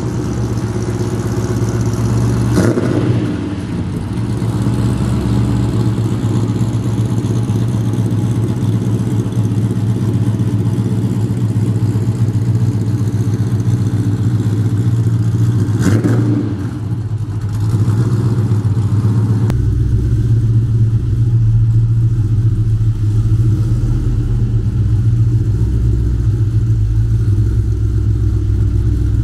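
Holden VU SS ute's V8 engine running at low speed as the ute is driven in, with a brief change in revs about three seconds in and again about sixteen seconds in. Near the end the note turns deeper and more muffled.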